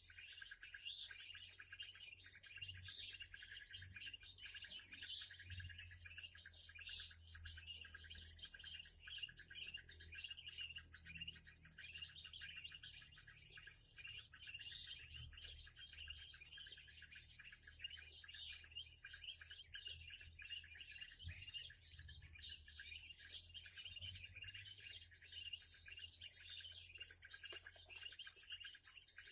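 Small songbirds chirping in a fast, unbroken stream of high notes, with a faint low hum underneath.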